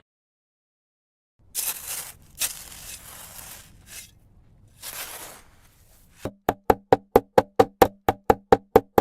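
A few short noisy sounds, then a fast, even run of sharp knocks, about six a second, over a low steady hum.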